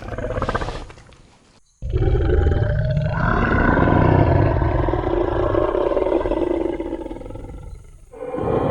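Tyrannosaurus rex roar sound effect. A shorter call fades out, then about two seconds in a long, deep roar starts abruptly, runs for about six seconds and tapers off. Another roar begins near the end.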